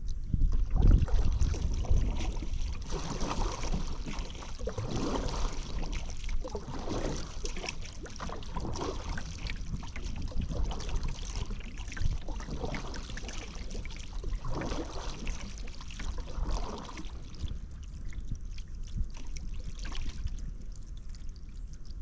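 Paddle strokes dipping into river water, a splash about every two seconds, over a low rumble of wind on the microphone; the strokes fade after about 17 seconds.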